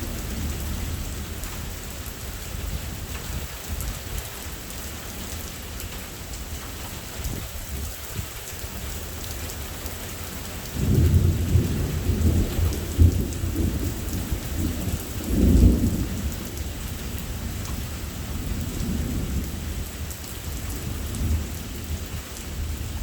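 Steady heavy rain falling through a thunderstorm, with thunder rumbling low underneath. About halfway through a louder peal of thunder breaks in suddenly, swells to two loud peaks over the next few seconds, then rolls away.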